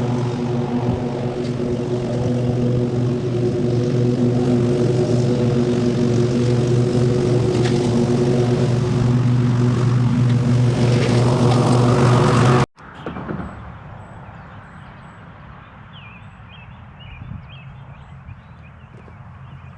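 An engine running steadily, rising in pitch near the end, then cut off abruptly. A much quieter outdoor background with faint high chirps follows.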